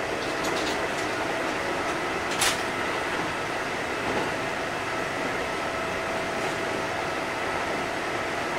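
Steady in-car sound of a Kintetsu 8000 series train: an even rumble with a faint steady hum at a few pitches, and a single sharp click about two and a half seconds in.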